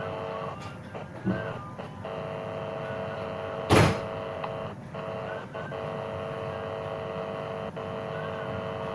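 A steady electronic hum made of a few close tones, with a short loud burst of noise about four seconds in.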